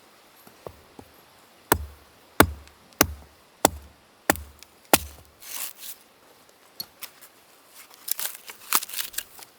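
Firewood being split by hand: six sharp chopping strikes at an even pace, about two-thirds of a second apart, each with a dull thud of the blow into the wood. Near the end come a quick run of lighter knocks and clatter of split wood pieces.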